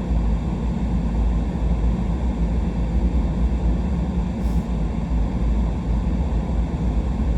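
A truck driving slowly on a sanded road: a steady low rumble of engine and tyre noise.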